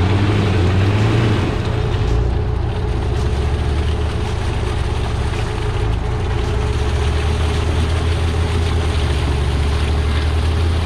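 Vehicle engine running at a steady speed, its pitch dropping slightly about a second in and then holding even.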